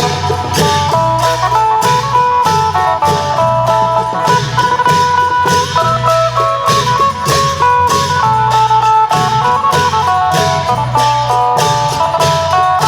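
Isan phin, a plucked lute, playing a busy melody of quick notes over klong yao long drums and percussion keeping a steady, even beat.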